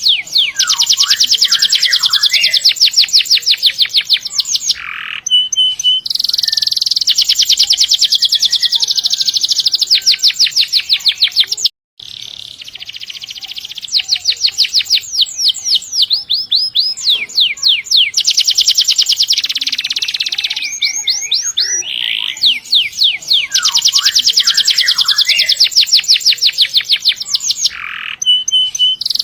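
Domestic canary singing long, rapid trilled rolls of high repeated notes, broken by short warbled phrases. The song cuts out for an instant about twelve seconds in.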